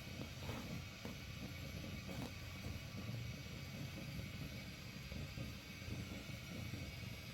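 Steady rain: an even hiss with a low rumble beneath it.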